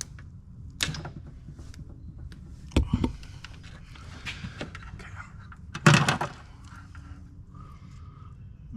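A few separate knocks and clunks of parts and tools being handled: one about a second in, a deeper pair about three seconds in, and the loudest about six seconds in.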